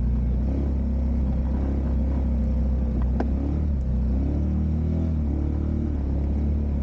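Motor vehicle engine running, a steady low drone, with a few faint clicks.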